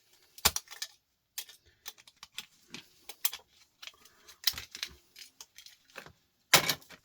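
Irregular sharp clicks and metallic clinks of small brass and copper pieces and plastic plug parts being handled as the brass pins are worked out of an electrical plug, with a louder clatter near the end.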